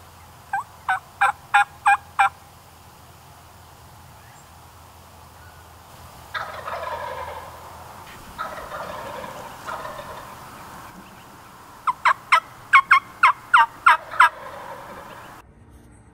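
Turkeys calling: a run of about six short, sharp hen-style yelps, then two longer rattling gobbles about six and eight seconds in, then a longer run of about ten yelps.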